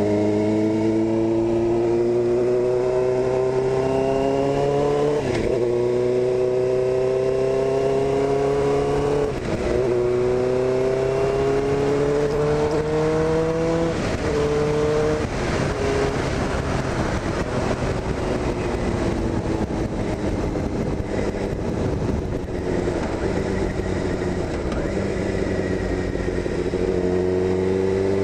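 Suzuki GSX-R600 inline-four sports bike engine accelerating through the gears, the revs climbing and dropping at upshifts about five, nine and fourteen seconds in. It then runs steadier before picking up again near the end.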